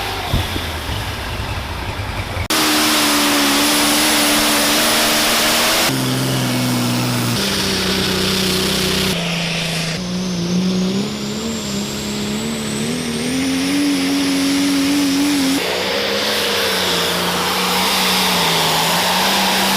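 Super stock pulling tractor engines running at high revs under load, in a string of short clips that cut abruptly from one to the next, with a high turbo whine rising in the middle.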